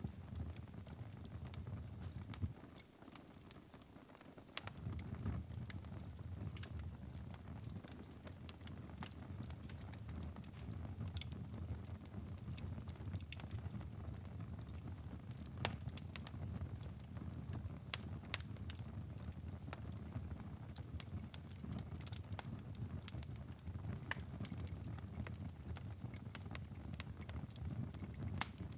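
Wood fire burning in a fireplace: a low steady rumble of flame with frequent sharp crackles and pops. The rumble drops away briefly a few seconds in.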